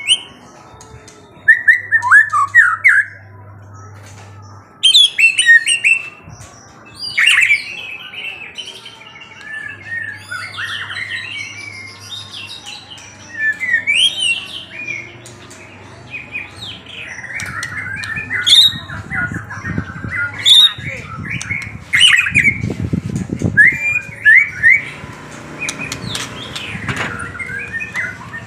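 A songbird chirping in quick bursts of short, sweeping notes, with brief pauses between phrases.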